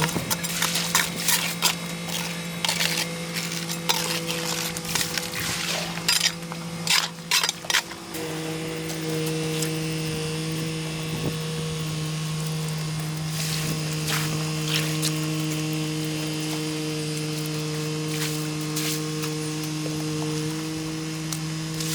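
A motor-driven tool running with a steady hum. For the first eight seconds or so it comes with repeated clicks and scraping, then it runs on more evenly.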